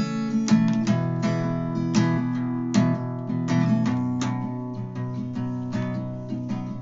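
Acoustic guitar strummed in chords: a steady pattern of strokes, the strings ringing on between them.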